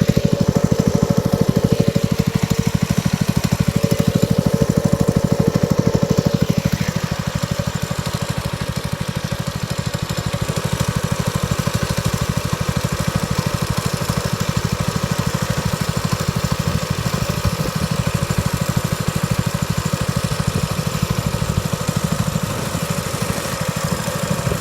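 Small single-cylinder, pull-start dirt bike engine running steadily. It is louder for the first six or seven seconds, then settles to a slightly lower, quieter run.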